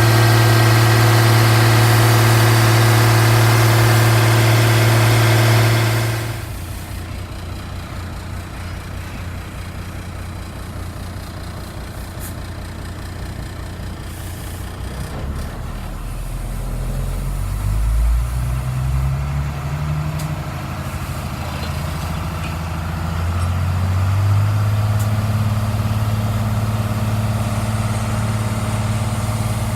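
International DT360 inline-six diesel engine running on test: held at a raised speed, it drops back to a lower idle about six seconds in, speeds up and down unevenly around the middle, then settles into a steady, somewhat faster run near the end.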